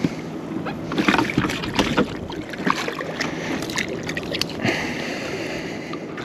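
Irregular knocks, taps and splashy rustling as a freshly caught tailor is handled on a plastic fishing kayak, with water sloshing against the hull.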